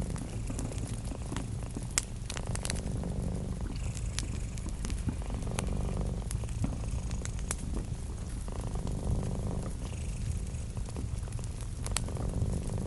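A cat purring steadily, the purr swelling and fading with each breath about every three seconds, over the scattered sharp pops and crackles of a wood fire, one louder pop about two seconds in.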